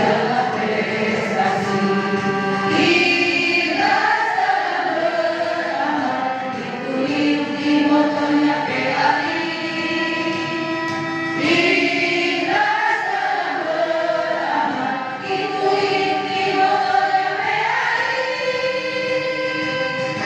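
A group of voices singing a march song together in rehearsal, with long held notes and steady phrasing.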